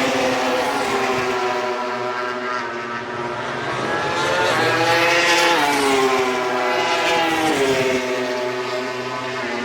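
Racing motorcycle engines at high revs, their pitch falling, climbing and dropping again as the bikes shift and pass, with one sharp rise and fall about halfway through.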